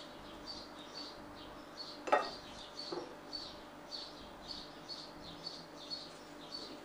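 A small bird chirping over and over, short high chirps about two or three a second. Two short, sharper sounds stand out about two and three seconds in.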